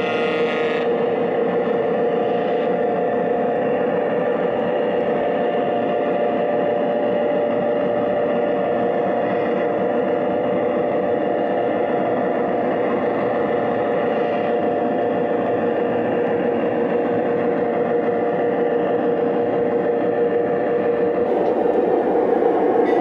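Recorded diesel engine sound from a Lionel Detroit Edison SW8 model switcher's onboard sound system as the locomotive runs, steady throughout, changing slightly near the end.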